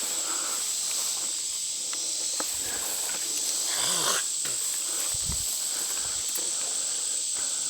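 Steady high-pitched insect chorus, a constant shrill hum with a hiss above it, with a few faint knocks and a distant voice about four seconds in.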